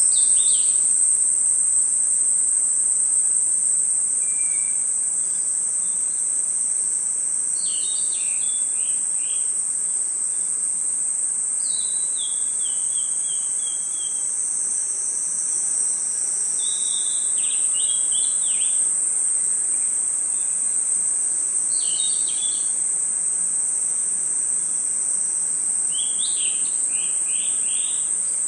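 Crickets and other insects trilling in a steady, high, unbroken chorus, with a bird calling in short chirping phrases of a few quick notes every four or five seconds.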